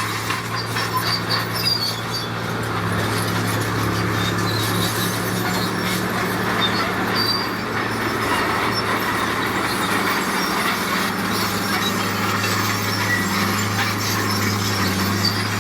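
Heavy diesel construction machine running steadily, with short high-pitched metallic squeaks over its engine hum.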